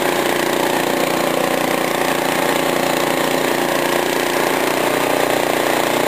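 Cub Cadet snowblower's engine running steadily at a constant pitch, with no change in speed.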